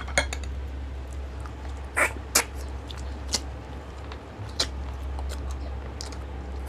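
Close-miked eating sounds: wet lip smacks and chewing clicks from mouths working on food, a few sharp ones about two, three and four and a half seconds in, over a steady low hum.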